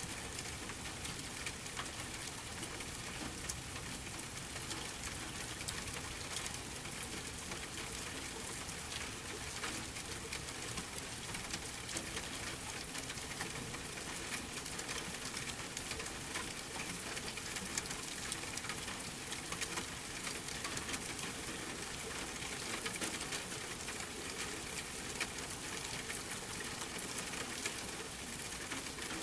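Steady rain with a wood fire crackling: an even hiss of rain, sprinkled with many small sharp crackles.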